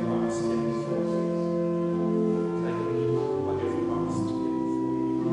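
Church music on a keyboard: sustained, organ-like chords held for a second or two before moving to the next.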